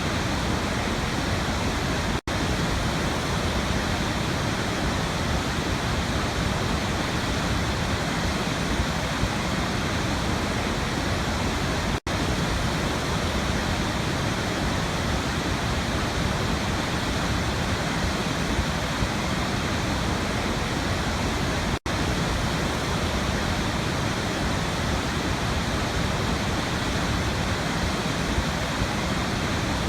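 Waterfall rushing in a steady, unbroken roar of falling water. The sound cuts out for an instant three times, about ten seconds apart.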